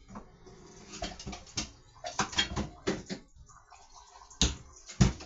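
Kitchen handling sounds: scattered light clicks and clatters of utensils and cookware. Two sharper knocks come near the end.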